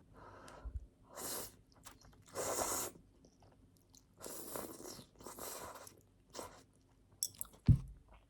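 Close-up chewing of crunchy food: a handful of loud crunching bites, each about half a second long. Near the end there is a single sharp, low thump.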